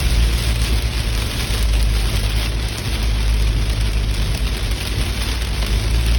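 Steady noise of a vehicle travelling in heavy rain: rain hiss over a continuous low rumble of the road and engine.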